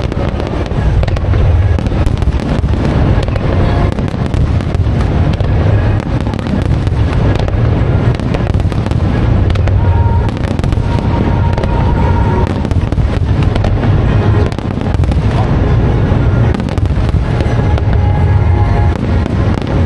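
Fireworks display: a dense, continuous run of aerial shell bursts and crackling with a deep rumble, and show music playing along with it.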